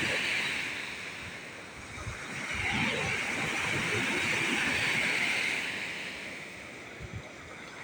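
Large storm waves on a lake breaking and washing up the beach, the surf hiss swelling and easing twice. Wind buffets the microphone with a low, uneven rumble.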